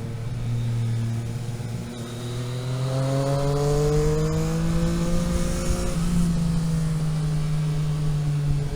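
Car engine under way, running steadily, then rising in pitch as it accelerates from about two seconds in. Around six seconds in the pitch pattern shifts, as at a gear change, and the engine then holds steady.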